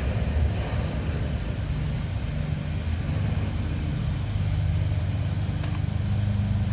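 Steady low rumble of an engine running, a constant hum that grows a little stronger about halfway through.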